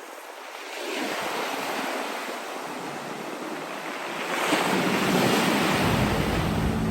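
Black Sea surf: waves washing onto the shore, with the wash swelling about a second in and again more loudly past the middle. A low steady hum comes in near the end.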